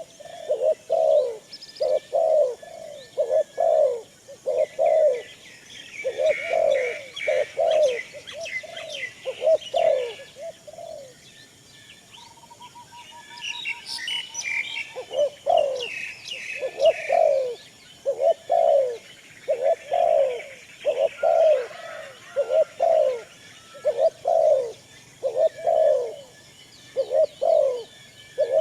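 Doves cooing over and over in short, falling notes, about one to two a second, with a brief pause about halfway. Smaller birds chirp higher up in between.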